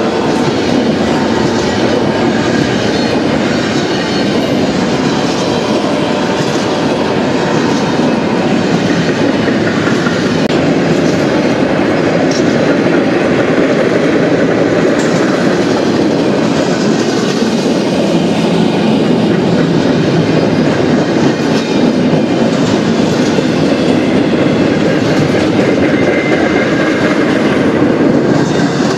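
Empty intermodal well cars of a freight train rolling past, their steel wheels running on the rails in a steady, loud rumble and rattle.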